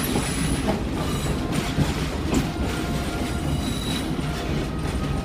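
Passenger train rolling along, heard from on board: a steady rumble and rattle, with faint high wheel squeals coming and going and a few sharp knocks.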